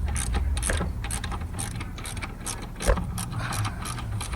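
Hand socket ratchet clicking in a steady rhythm, about three clicks a second, as a bolt is backed out. One louder knock comes about three seconds in.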